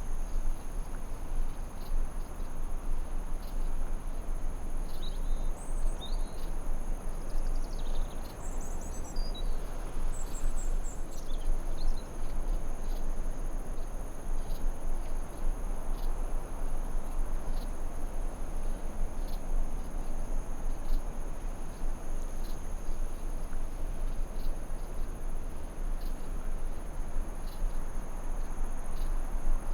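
Forest ambience: a steady hiss under a continuous high-pitched insect trill, like crickets. A few short bird chirps come between about five and twelve seconds in.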